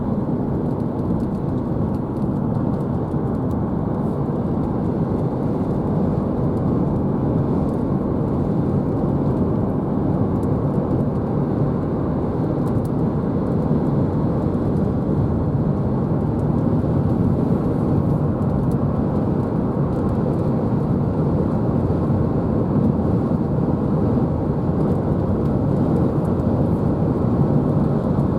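Strong outflow wind rushing steadily with a low rumble and no breaks, with only slight swells in strength.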